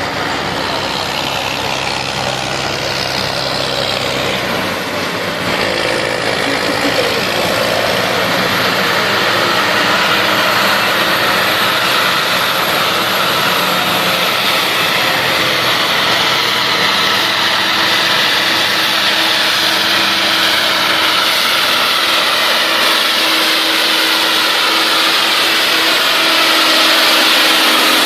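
John Deere 2020 tractor engine running steadily, its low idle hum giving way after a few seconds to a louder working sound whose pitch drifts slowly up and down.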